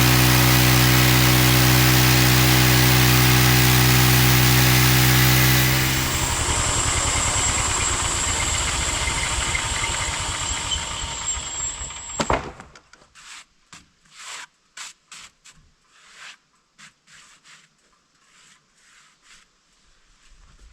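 Homemade band sawmill's engine running steadily, then cutting off about six seconds in and winding down with a high whine. A sharp clunk comes about twelve seconds in, followed by scattered light clicks and handling sounds.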